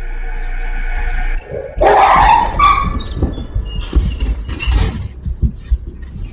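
A large dog growling steadily, then breaking into loud, sudden yelps about two seconds in, in fright, followed by a few thumps and scuffles as it flees.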